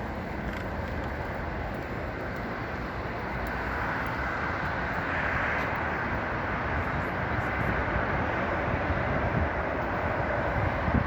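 Steady rumble and hiss of a moving cable car gondola, with a whine that swells about four to six seconds in and a few knocks near the end.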